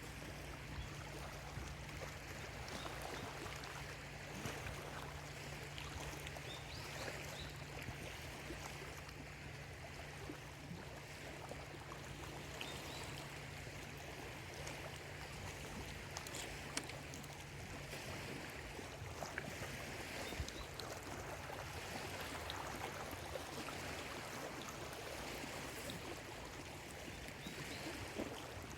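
Small lake waves lapping steadily against the shore, with a few faint bird calls.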